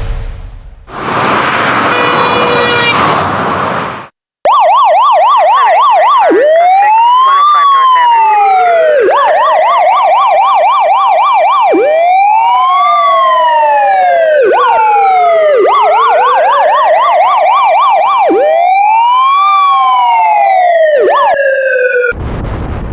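Police car siren sound effect cycling between a fast yelp and a slow rising-and-falling wail, two siren tones overlapping. It starts a few seconds in, after a short noisy burst and a moment of silence.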